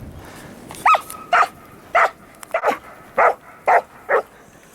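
A dog barking in a run of about seven loud, sharp barks, roughly two a second, starting about a second in.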